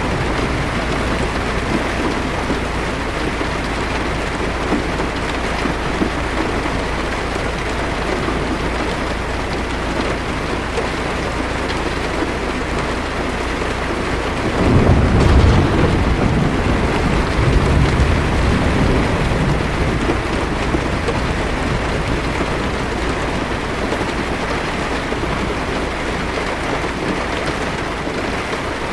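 Heavy rain drumming steadily on a car's windshield and roof. About halfway through, a low roll of thunder swells up and rumbles on for a few seconds.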